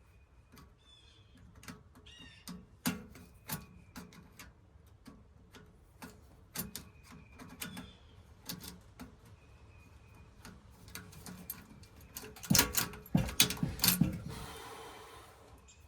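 Scattered clicks and knocks of hand tools and metal parts being worked on, with a quick run of louder clanks about twelve seconds in.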